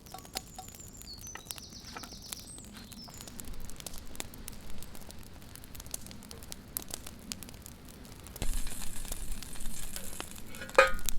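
A bean burger sizzling as it fries in a pan, with scattered small clicks and taps. About eight seconds in the sizzle turns much louder, and a sharper knock follows near the end.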